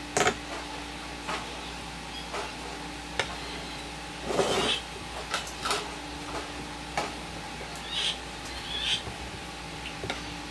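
Scattered light clicks and knocks of hand work on small parts, with a longer scraping rustle about four seconds in, over a steady hum.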